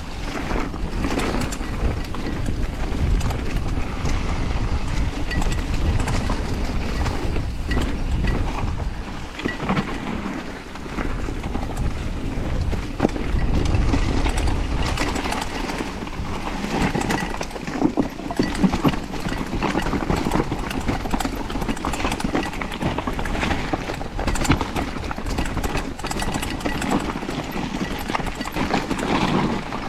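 Mountain bike descending a rough downhill trail at speed: tyres rolling over dirt and rocks and the bike rattling over bumps, a constant clatter of small knocks.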